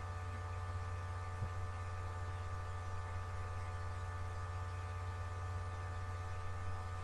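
Steady electrical mains hum: a low drone with a row of fainter steady tones above it. There is a single faint click about a second and a half in.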